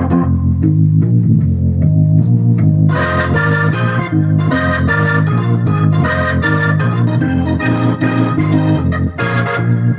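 Hammond XK-2 organ played through a Motion Sound Pro-3T rotary speaker amp: a blues groove over a walking low bass line. About three seconds in, bright repeated chords in the upper register come in on top.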